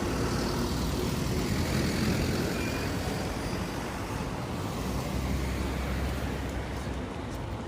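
Street traffic passing, a steady rumble of road vehicles with a low engine hum for a couple of seconds past the middle.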